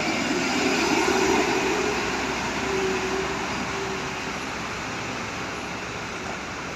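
A heavy truck passing on the road: engine drone and tyre noise, loudest in the first few seconds and then fading.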